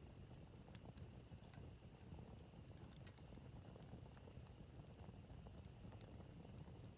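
Wood campfire burning quietly, crackling with scattered sharp pops and snaps over a low, steady hiss of the flames.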